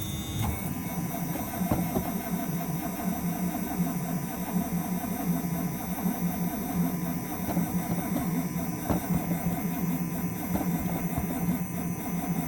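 1976 Cadillac's V8 cranking on the starter in deep cold, turning over steadily with an even pulsing beat but not firing.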